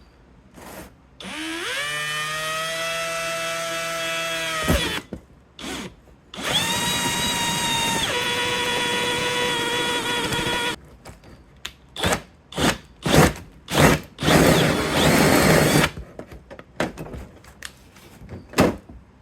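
Power drill drilling the centre hole in a thin copper-coated aluminum sheet for a homemade exhaust gasket. The motor spins up with a rising whine, runs about three seconds and stops, then runs again for about four seconds with its pitch dropping partway through, followed by a series of short trigger bursts and one longer burst.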